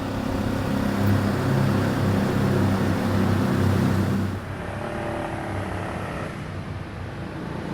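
Ducati DesertX's 937 cc V-twin engine pulling steadily under throttle, with wind rush. About four seconds in the engine note drops and the wind noise eases off.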